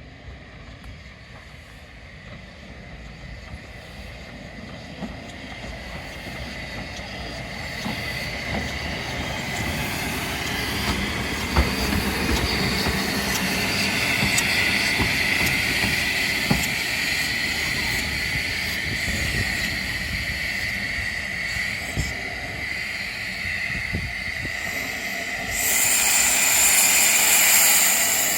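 Narrow-gauge steam locomotive 'Lyd', a 2-6-2 tank engine, running slowly along the track and growing louder as it comes closer, with a steady wheel squeal and scattered clicks from the wheels over rail joints. About 26 seconds in, a loud hiss of steam starts suddenly.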